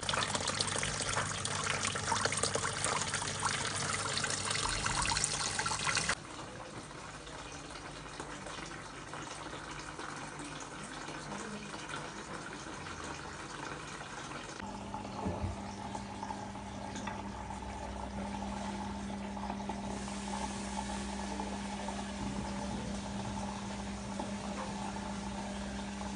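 Water running or pouring for about six seconds, then cutting off suddenly. About halfway through, a steady electrical hum from an appliance starts and keeps going.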